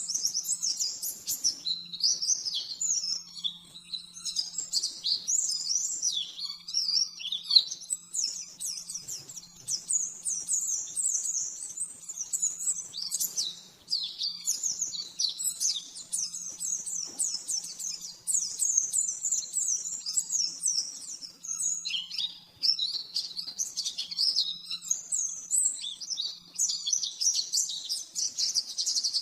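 White-eye (pleci) singing a fast, continuous high-pitched twittering song, phrase running into phrase with only a brief break about three quarters of the way through.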